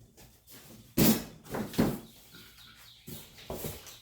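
Packaging being handled while parts are pulled out of a cardboard shipping box: a few sudden rustling, scraping sounds with short quiet gaps between them, the loudest about a second in.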